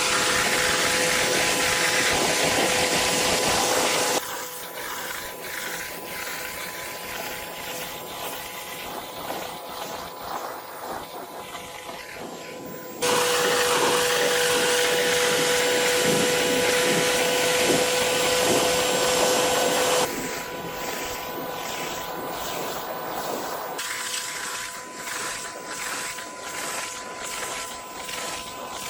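Pressure washer running with a steady hiss and a steady whine, its spray working a surface. It is loud for the first four seconds and again from about thirteen to twenty seconds, and quieter in between, with the level jumping abruptly at each change.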